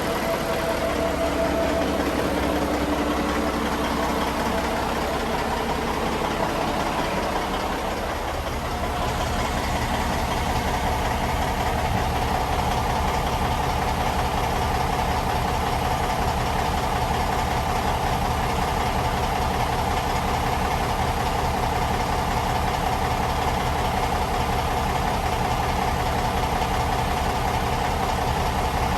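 Large diesel engine of a generator set running steadily in an engine room. About eight seconds in the sound dips briefly, then settles into an even drone with a steadier hum on top.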